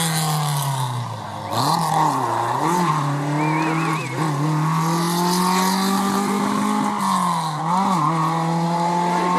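Rally car engine under hard throttle. Its pitch dips and recovers a few times in the first three seconds as the driver shifts or lifts, climbs steadily through the middle, dips again near the end, then holds high.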